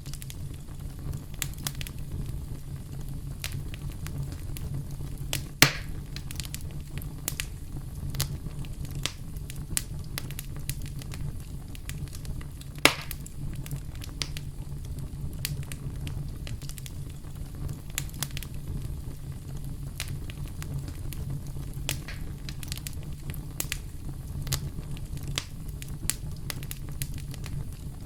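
Campfire burning: a steady low rumble of flames with frequent sharp crackles and wood pops, two louder pops about five and a half and thirteen seconds in.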